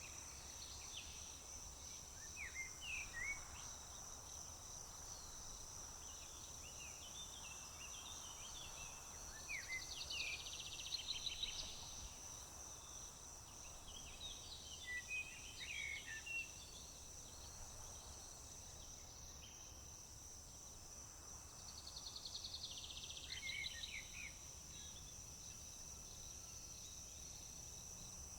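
Crickets chirring in a steady high-pitched drone while songbirds call with short chirps and whistled slides. A louder trilled song comes twice, about ten seconds in and again about twenty-two seconds in.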